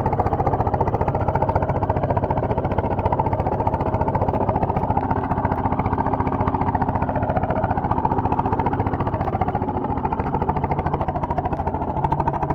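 Small tractor's engine running steadily, with a fast even firing beat.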